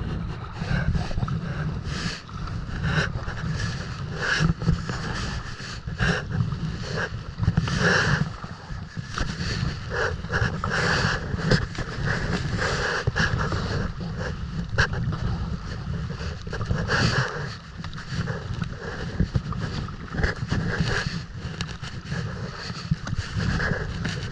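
Water splashing and sloshing around a kayak at sea, with short splashes about once a second, under heavy wind buffeting on the microphone.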